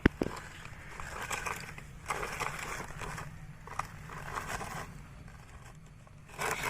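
Toy truck's wheels rolling over sand, giving uneven crunching and scraping, with a sharp click just after the start.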